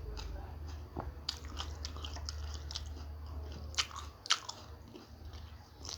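A person biting and chewing crunchy food close to the microphone, samosa and raw green chilli, with many small crisp crunches and two sharper bites about four seconds in.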